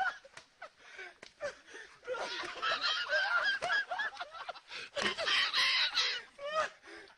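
Fowl calling: many short calls in quick, overlapping succession, with a brief lull early on and louder stretches later.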